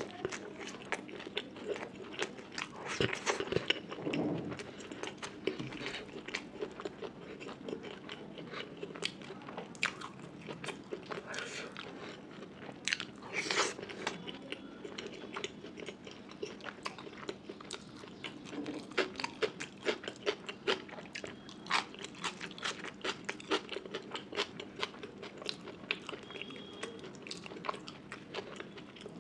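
Close-miked chewing and biting of food, a dense run of quick crisp mouth smacks and crunches, with louder bites about three seconds in and again around thirteen seconds.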